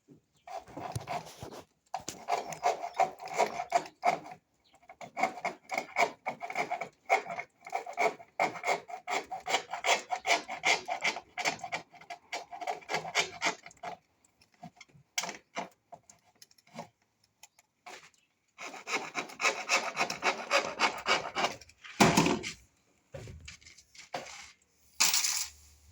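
Hand sawing with rapid back-and-forth strokes, in three long runs with pauses between them. A sharp knock sounds near the end.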